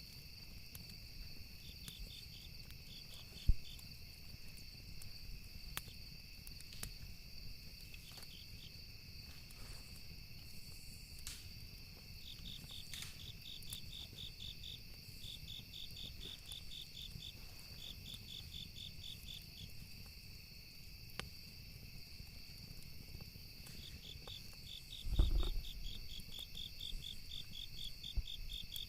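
Campfire ambience: wood crackling with scattered sharp pops over a low rumble, with insects chirping steadily in rapid trilled bursts. One louder, deeper pop about three-quarters of the way through.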